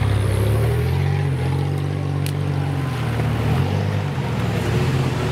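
Off-road 4x4 engines running steadily at low revs, their pitch shifting slightly.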